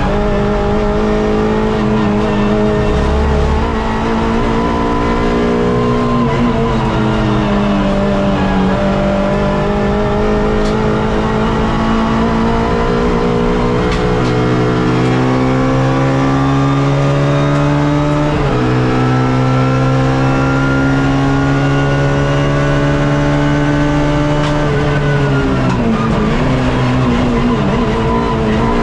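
Suzuki Swift race car's engine heard from onboard, running hard: the revs sag a few seconds in, then climb steadily, drop once with a quick upshift about two-thirds through and climb again, before falling away near the end as the driver lifts off.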